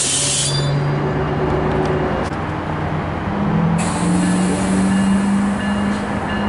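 Passenger train standing at a platform: a loud air hiss that cuts off about half a second in, then a steady low engine hum.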